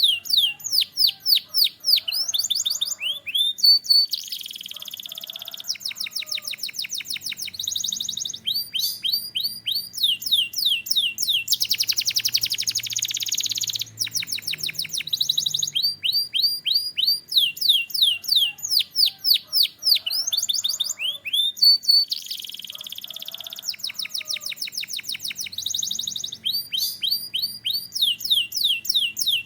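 Canary singing a long song: runs of quick falling whistled notes, several a second, alternating with fast buzzy trills and rolls. The same passage of song comes round again about halfway through.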